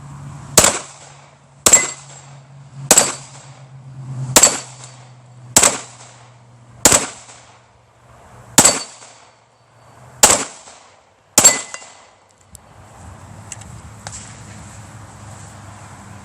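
A run of nine gunshots fired at steel targets, spaced about a second to a second and a half apart. A few shots are followed by a faint ring of struck steel plate. The shooting stops about 12 seconds in.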